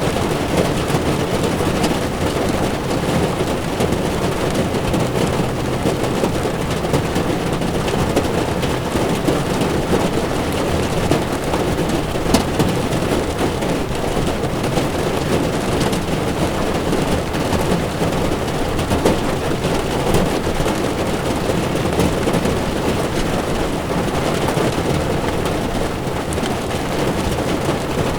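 Heavy rain falling on a car's windshield and body, heard from inside the moving car, with tyres running on the wet road. A steady, dense wash of noise, strongest in the low range, with a faint tick about halfway through.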